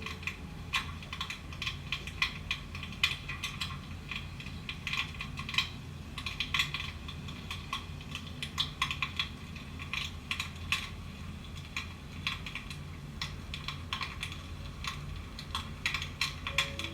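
Irregular crackling and popping, like burning logs, from an electric fireplace's flame-effect sound, over a steady low hum.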